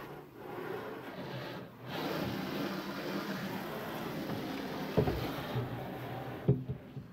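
Car wash in progress: water spraying against a car with a steady rushing noise. The noise breaks off briefly twice and dies down near the end, and there are two sharp thumps before that.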